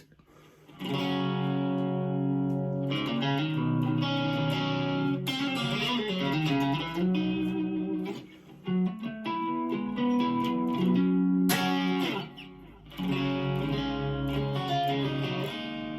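Electric guitar (a 1992 Gibson Les Paul Custom) played through a gain amp on its neck pickup, an Oil City Scrap Yard Dog+ Alnico 8 humbucker, coil-split to single coil with the guitar's volume rolled down. Ringing chords and picked notes start about a second in, with short breaks about halfway and about three-quarters of the way through.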